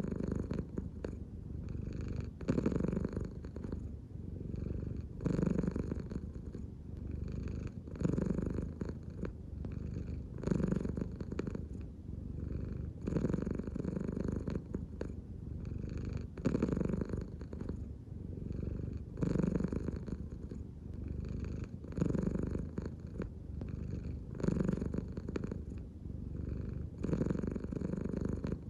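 American Shorthair cat purring steadily, the purr swelling and easing with each slow belly breath, about once every two and a half to three seconds.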